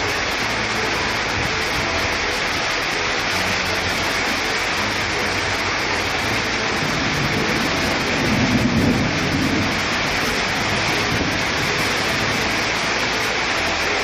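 Heavy tropical rain pouring steadily, a dense, even hiss. A low rumble swells briefly about eight seconds in.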